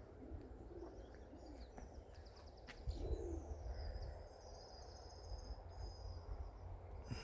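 Small birds chirping and trilling in the background, with a low rumble of wind on the microphone that swells about three seconds in.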